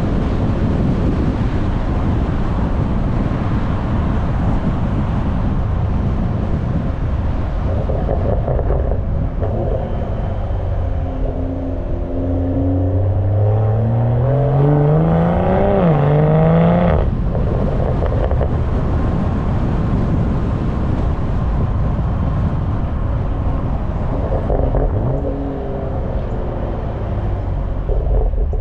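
BMW M340i's turbocharged 3.0-litre straight-six (B58) exhaust under acceleration: over heavy wind buffeting on the microphone, the engine note climbs in pitch for several seconds, dips briefly, climbs again and then cuts off abruptly as the throttle is lifted.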